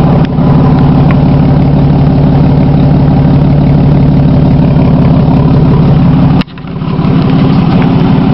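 2008 Ram's 3.7 V6 with the muffler cut off, running straight through its twin catalytic converters as a true dual exhaust: a loud, steady exhaust note at idle. About six and a half seconds in, the sound drops out sharply and builds back up within a second.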